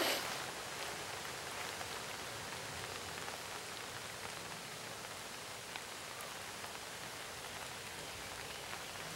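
Steady rain falling, an even hiss with faint scattered drop ticks, with a short louder rustle right at the start.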